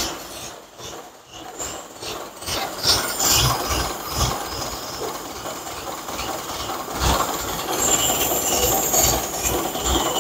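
1925 Maxwell's four-cylinder engine idling unevenly in irregular low pulses, which the owner blames on stale gasoline in the tank.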